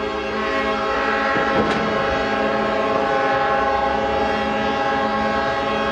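Ship's horns sounding one long, continuous blast, several horns of different pitch overlapping, with more joining about a second in.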